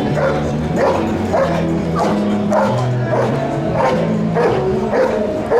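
German Shepherd protection dog barking over and over, about two barks a second, over background music with held bass notes.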